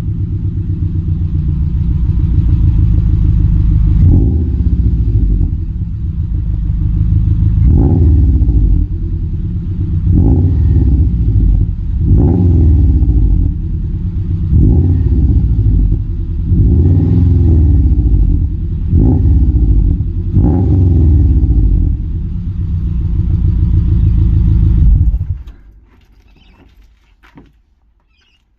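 Subaru flat-four boxer engine with unequal-length headers, a 2.25-inch cat-back exhaust, the secondary cat deleted and a hotdog resonator, idling with the typical uneven boxer rumble. About eight short throttle blips follow one another every couple of seconds, and the engine sound cuts off about 25 seconds in.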